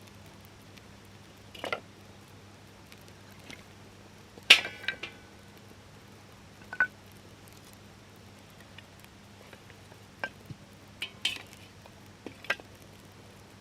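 Scattered clinks and taps of metal camp cookware and utensils being handled, the loudest about four and a half seconds in, over a faint steady low hum.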